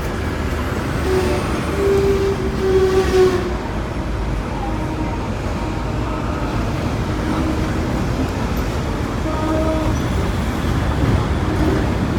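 Hong Kong double-decker electric tram running along its rails: a steady low rumble, with a held whining tone about a second in that lasts two seconds or so, and another near the ten-second mark.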